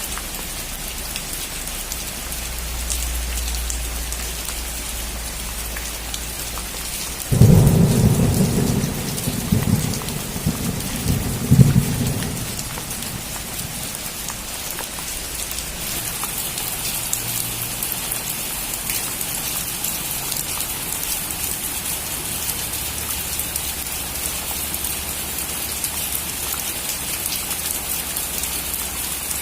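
Steady rain falling on a roof, with a sudden loud thunderclap about seven seconds in that rumbles on in several peals for about five seconds. Around halfway through, the rain's hiss grows heavier.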